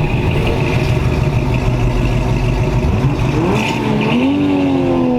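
Car engines running loudly; about three seconds in, one engine revs up and its note then slowly falls away over the low rumble of the others.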